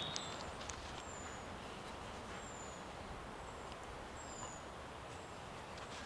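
A small bird repeats short, very high, falling whistled notes about once a second over a steady outdoor hiss. A few faint clicks and scrapes come as a wooden stick works sticky pine resin into a goose eggshell.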